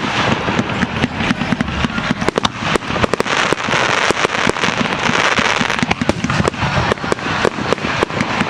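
Fireworks display going off: a dense, unbroken run of sharp pops and bangs over a steady crackle.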